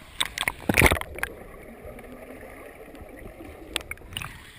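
Water splashing around kayaks during roll practice: several sharp splashes in the first second or so and a couple more near the end, over a steady wash of water.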